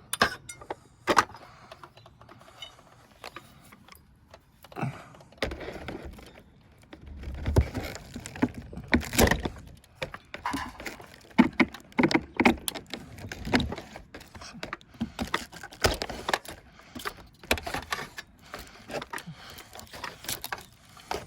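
Hand demolition work on rotted wood and metal flashing: irregular knocks, scraping and metallic clinks as the wood is pried and pulled apart.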